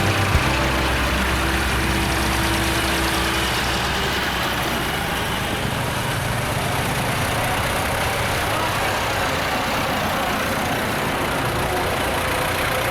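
Tractor engines running with a steady low drone. A few seconds in, the drone gives way to an even, noisy rumble.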